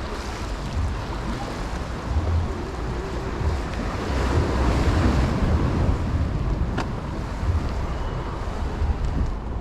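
Waves washing in, a surge of wash swelling about halfway through, with wind gusting on the microphone.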